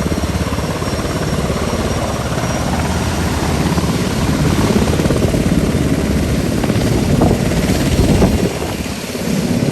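Sikorsky UH-60 Black Hawk helicopter, its rotor chopping steadily and loud, a little louder midway.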